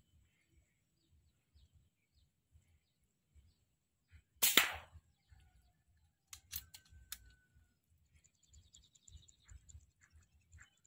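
A single air rifle shot about four and a half seconds in, followed about two seconds later by a few sharp clicks.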